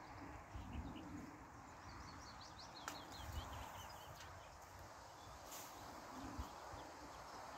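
Small birds chirping and singing in quick short notes, thickest about three seconds in, over faint low rumbling.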